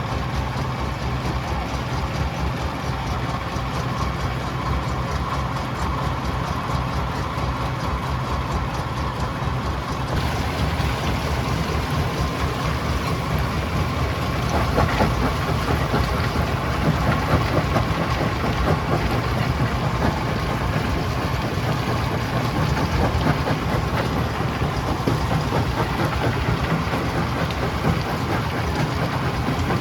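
A stone crusher at work: a steady low diesel engine drone under a continuous gritty rattle and crackle of rock being broken and tumbling through the machine. The rattle grows louder about ten seconds in.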